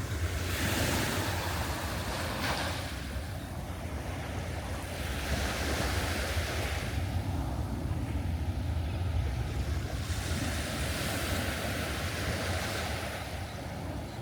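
Small surf breaking and washing up the beach in three surges about five seconds apart, with wind rumbling on the microphone throughout.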